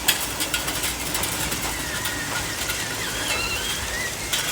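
Toy RC vehicle running: a small electric motor and gearbox whining and wavering in pitch, over a clatter of sharp clicks and rattles.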